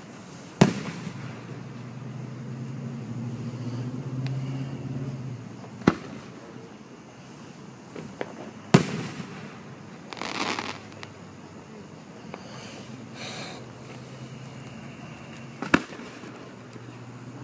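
Aerial firework shells bursting: four sharp booms spread through, the loudest about a second in and about nine seconds in, with a smaller pop just before the second loud one and a short hiss about ten seconds in.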